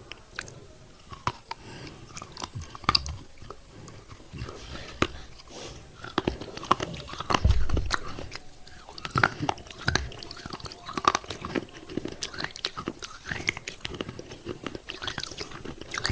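Close-up biting and chewing of thick pieces of broken fired clay pot coated in paste, with many sharp, gritty crunches in quick succession. The loudest crunch comes about halfway through.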